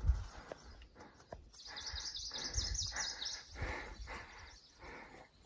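A songbird sings a fast, high trill for about two seconds, starting about one and a half seconds in. Under it is a regular scuffing about twice a second: footsteps crossing loose boulders.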